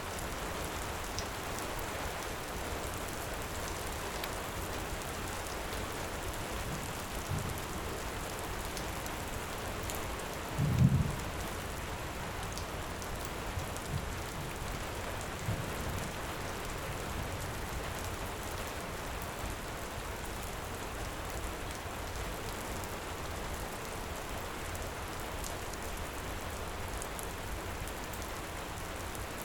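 Heavy rain falling in a steady, even hiss, with a few short, low rumbles of thunder; the loudest comes about eleven seconds in.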